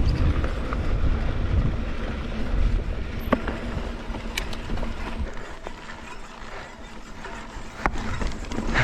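Mountain bike rolling over slickrock, the rear freehub ratcheting while the rider coasts, over tyre and wind rumble, with a few sharp clicks from the bike. The rumble eases about halfway through.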